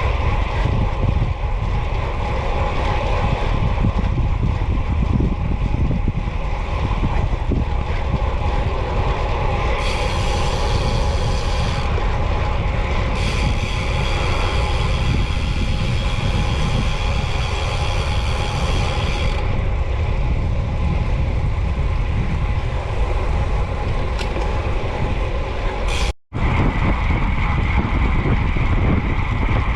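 Wind buffeting the microphone and tyre rumble from a bicycle ridden fast on the road. A high whine with several overtones joins in about ten seconds in and holds for several seconds. The sound drops out briefly near the end.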